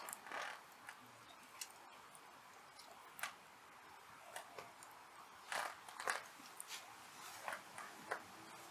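Hardwood fire crackling: irregular sharp pops and snaps, some in quick pairs, over a faint steady hiss.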